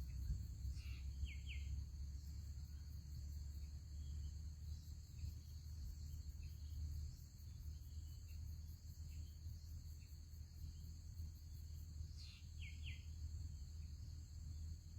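Steady high-pitched insect drone over a low rumble, with a quick double bird chirp about a second in and again after about twelve seconds, plus a few fainter chirps between them.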